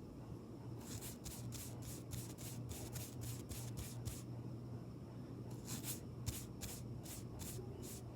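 Makeup brush swept in quick rhythmic strokes, about three a second: a run of roughly a dozen soft swishes, a pause, then a shorter run of about six.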